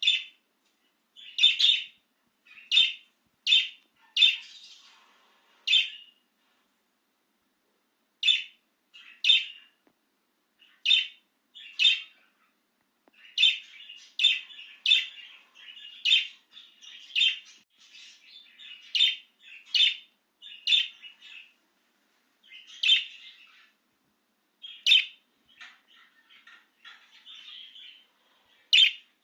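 A pet budgerigar calling: a series of short, sharp chirps about a second apart, with softer warbling chatter in between during the latter part.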